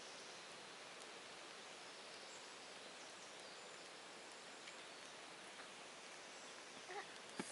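Faint steady outdoor background hiss with a few soft clicks, and a sharper click just before the end.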